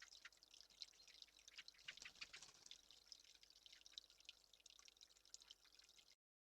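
Faint, irregular dripping: water drops ticking over a light hiss, cutting off suddenly about six seconds in.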